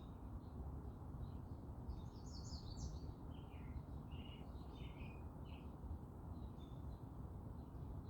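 Small birds chirping and twittering, with a flurry of quick high notes about two seconds in, over steady low background noise.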